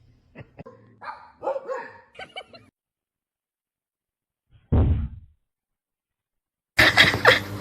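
A dog giving a quick run of short yips and barks, then one louder bark a couple of seconds later. Near the end a louder, busier, noisy sound cuts in.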